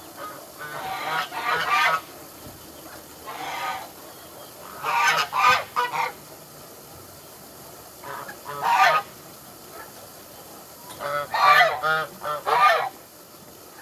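Poultry calling in short clusters of loud, pitched calls every couple of seconds, about five clusters in all.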